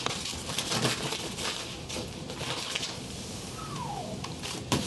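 A string of irregular light clicks and taps, with a short falling squeak about three and a half seconds in and a sharper click near the end.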